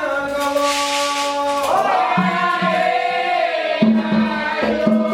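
Group of voices singing a Candomblé chant for Xangô, with long held notes, over a rattle shaken in time. About four seconds in, a repeated low beat joins.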